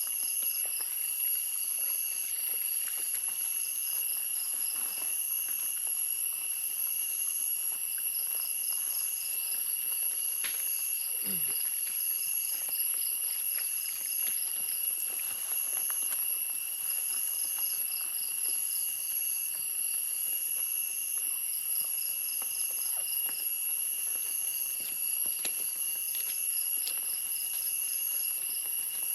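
A steady chorus of forest insects: several continuous high trills, with short pulsing chirps repeating above them. About eleven seconds in there is one brief low falling sound.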